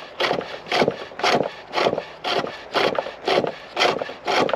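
A chisel cutting into a chestnut spindle on a foot-treadled pole lathe, a rhythmic scrape on each stroke, about two strokes a second.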